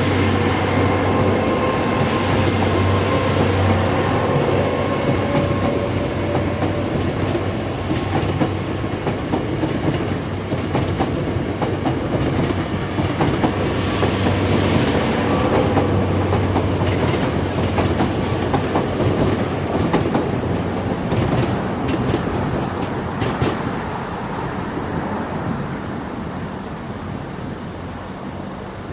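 Train passing over the level crossing, its wheels clattering over the rail joints, steady and loud before easing off over the last few seconds.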